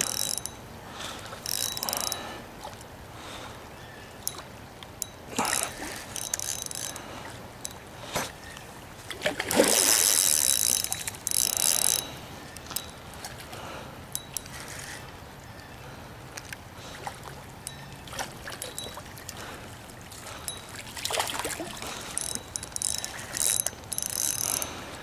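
Fishing reel working in several bursts of rapid ticking while a large carp is played on the line.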